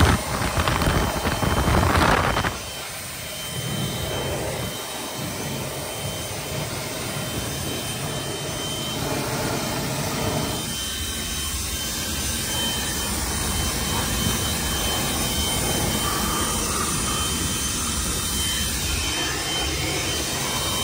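Leaf blower running steadily, blowing pollen off a small truck; loudest for the first couple of seconds, then even.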